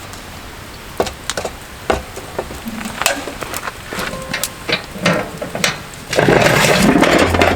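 Scattered sharp clicks and knocks of objects being handled, then a louder rustling noise from about six seconds in.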